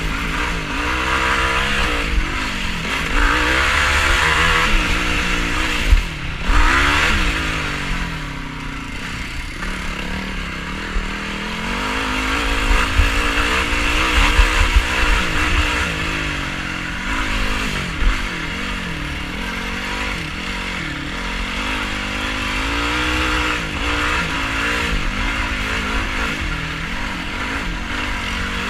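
Yamaha YFZ450R quad's single-cylinder four-stroke engine revving up and down again and again as it is ridden hard off-road, over a steady rushing noise. A few sharp thumps come through, around six seconds in and again later.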